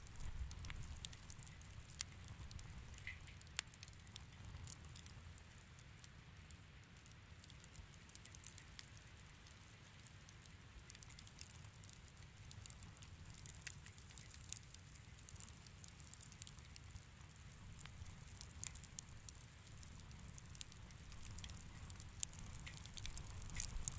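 Wood fire crackling in a fireplace: scattered small pops and snaps over a faint low rumble of the flames, the pops coming more often near the end.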